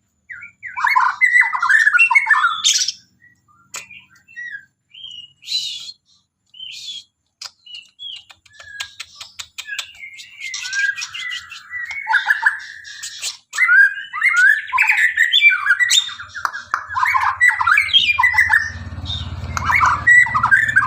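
White-rumped shama (murai batu) singing vigorously, a varied run of rich whistled phrases mixed with harsh squawky notes. The song comes in short bursts with gaps at first, then runs nearly without a break from about ten seconds in.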